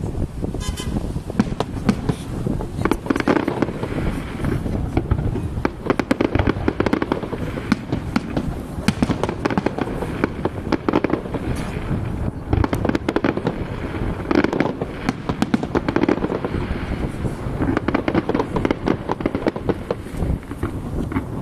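Fireworks display going off continuously: a dense, irregular run of rapid bangs and crackling bursts with no pause.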